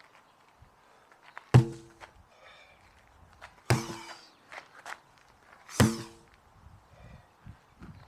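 A 16 lb sledgehammer swung in hard overhead strikes, landing three heavy blows about two seconds apart, each with a short ring.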